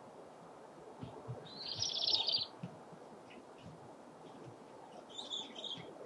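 Small birds calling: a fast, high rattling trill about a second and a half in, lasting about a second, then a shorter burst of high calls near the end.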